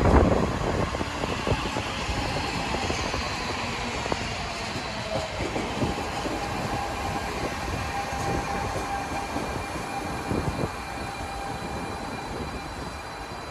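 DSB Litra SA S-train, an electric multiple unit, running past at the platform. The wheels clack over the rail joints and a faint steady electric whine sounds under the rumble, loudest at the start and slowly fading.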